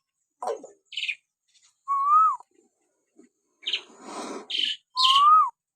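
Hill myna calling: two clear whistles that rise and then fall, about two seconds and five seconds in, between short harsh chattering calls and a longer rasping squawk about four seconds in.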